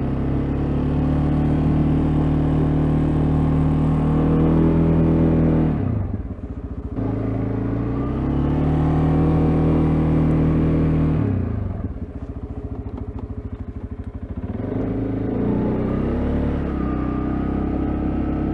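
CFMoto CForce ATV engine running at steady revs while plowing snow. The revs drop sharply twice, about six seconds in and again near twelve seconds. After the second drop the engine holds a low idle for a few seconds before rising back up.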